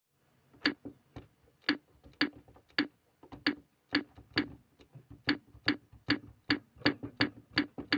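A series of sharp ticks or taps, unevenly spaced, coming closer together in the second half, with fainter ticks between the louder ones.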